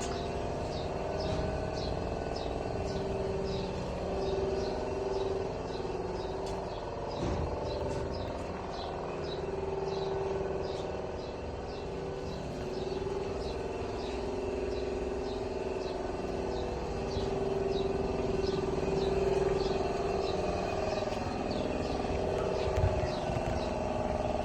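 Volkswagen Atlas engine idling steadily with a low hum, while a high chirp repeats about three times a second throughout.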